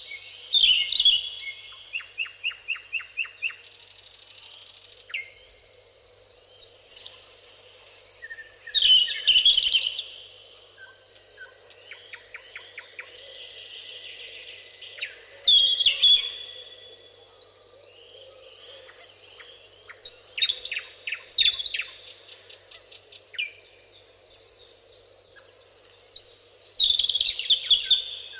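Several birds singing and calling, with short chirps, rapid trills and louder phrases every few seconds over a steady high whine. Two short hissing buzzes come about 4 and 14 seconds in.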